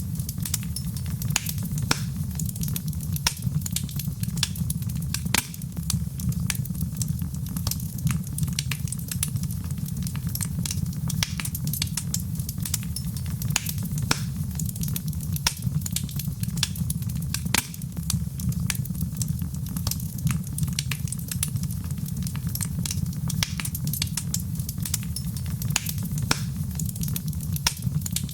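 Wood fire burning in a fireplace, with a steady low rumble of flames and frequent sharp, irregular crackles and pops.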